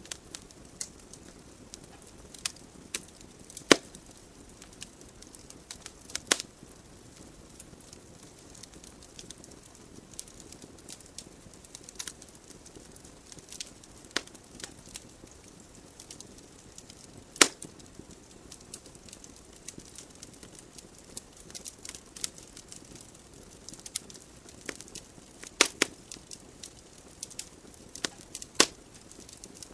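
Wood logs burning in a fireplace, crackling with sharp, irregular pops over a soft, steady hiss of flames. A few louder pops stand out several seconds apart.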